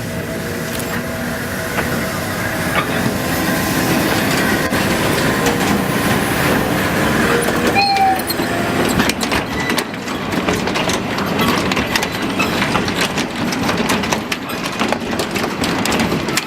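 Electric train running on the rails, wheels clicking over rail joints more and more often in the second half. A brief high squeal about eight seconds in.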